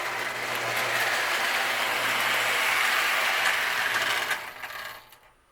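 Marx Wm. Crooks toy steam engine running on three-rail O-27 tin track, a steady mechanical rattle of motor, gears and wheels with a low hum. About four and a half seconds in it fades out as the train is brought to a stop.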